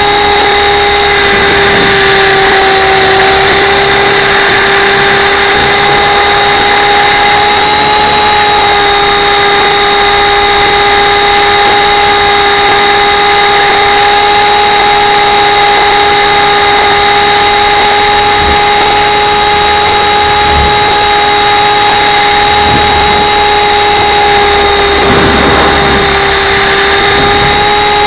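RC camera helicopter's motor and rotors whining loudly and steadily, close up on the helicopter itself, the pitch dipping only slightly now and then.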